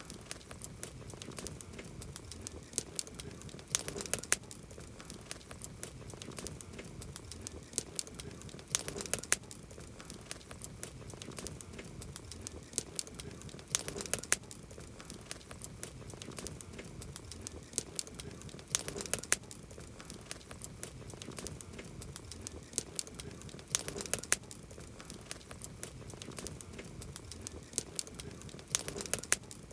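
Wood campfire crackling: a continuous run of irregular sharp pops and snaps over a soft hiss, with denser bursts of popping about every five seconds.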